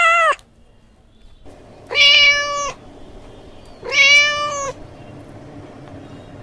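Cat meowing: the end of one meow right at the start, then two more evenly pitched meows about two seconds apart, each lasting under a second.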